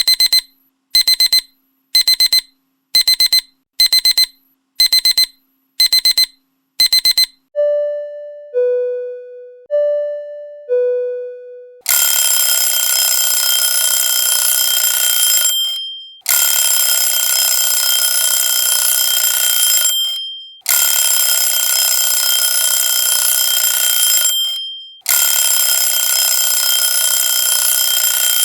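Alarm tones in sequence: rapid high electronic alarm-clock beeps, about two a second, then four falling two-note chimes, then a loud, harsh ringing alarm in blasts of about four seconds with short breaks.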